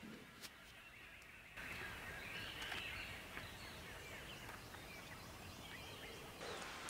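Birds chirping repeatedly over a faint steady outdoor hiss, coming in about a second and a half in after a few soft handling clicks.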